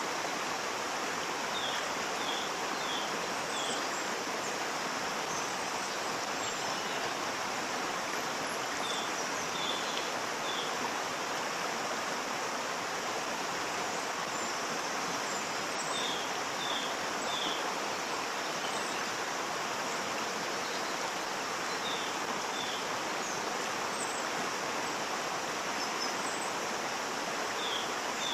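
Waterfall: a steady rush of falling water with no breaks. Faint, short, high chirps come in groups of three or four every six seconds or so.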